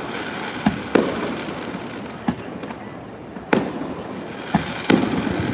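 Fireworks bursting overhead one after another: about six sharp bangs, irregularly spaced, each trailing off in a rumbling echo.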